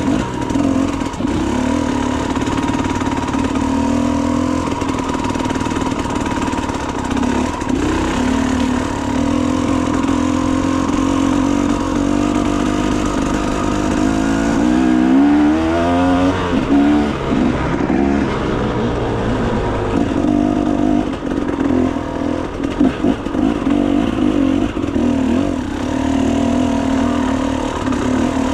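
Enduro motorcycle engine running under load on a trail, with the revs rising and falling sharply about halfway through, along with some clatter.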